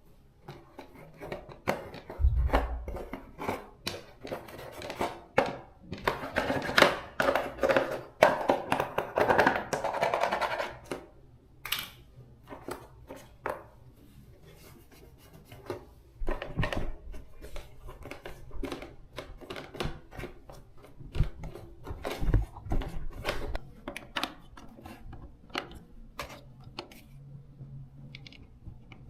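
Hands working on a fan motor with tools: irregular clicks, taps and knocks of metal parts, with a busier stretch of scraping from about six to eleven seconds in and a few dull thumps.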